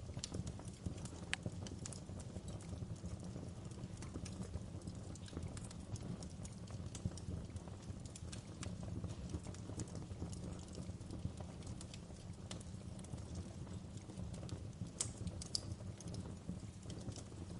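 Wood fire burning in a fireplace: a steady low rumble of flames with irregular crackles and pops from the burning logs, a few sharper pops standing out.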